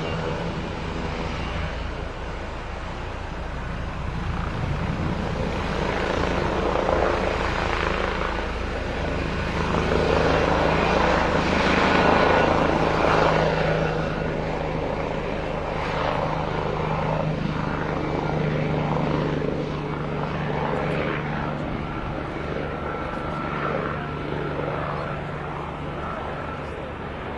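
Leonardo AW169 twin-turboshaft helicopter running, its turbine and rotor sound growing louder to a peak about halfway through, then easing off a little.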